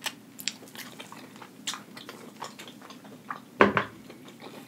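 Close-miked chewing of crispy Flamin' Hot Cheeto-crusted fried food: a run of short, sharp crunches and wet mouth sounds, with one louder thump a little past three and a half seconds in.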